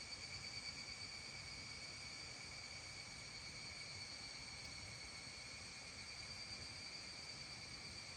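Faint, steady high-pitched trilling of an evening insect chorus, holding one even pitch without a break, over a soft low background hum.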